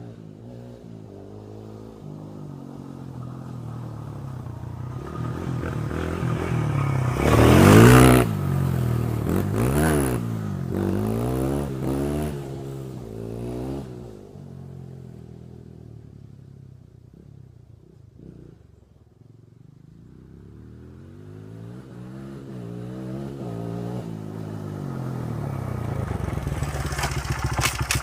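Small dirt bike engine revving as the bike is ridden past, loudest about eight seconds in, its pitch rising and falling with throttle and gear changes. It fades away, then grows louder again as the bike comes back, ending close by with a steady engine note.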